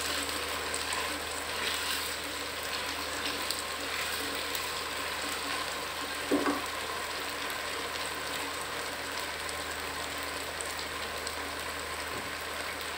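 Taro root (arbi) slices sizzling steadily as they fry in oil in a non-stick pan, stirred now and then with a silicone spatula; a brief knock about six seconds in.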